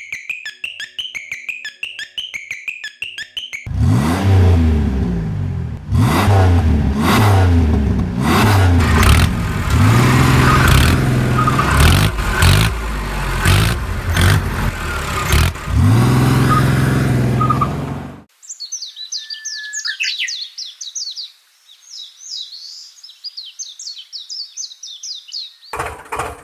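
A quieter opening with bird chirps and fast ticking, then an engine revving up and down over and over for about fourteen seconds. The engine sound stops suddenly and birds chirp alone until the end.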